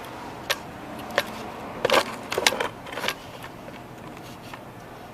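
Handling clatter from small tools and parts: a string of sharp clicks and knocks, the loudest cluster about two seconds in, over a steady low background hum.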